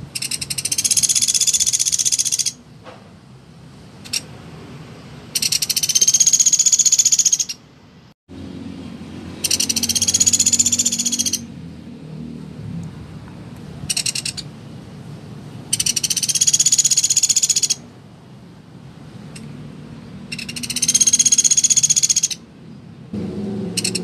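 Pelatuk beras woodpecker calling: a rapid, high, rattling trill about two seconds long, repeated roughly every four to five seconds, with a short trill or two in between.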